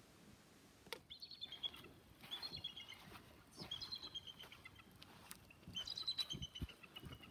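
A bird calling: four bouts of rapid, high chirping notes, each about a second long, with a few faint clicks in between.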